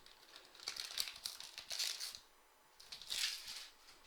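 Trading card pack wrapper crinkling as it is handled and opened, in a long spell and then a shorter burst about three seconds in.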